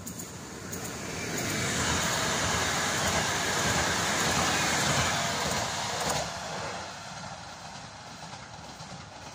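Koleje Dolnośląskie Newag Impuls 45WE electric multiple unit passing by: a swelling rush of wheels on rail and air, loudest for about four seconds. It drops off sharply about six seconds in and then fades away.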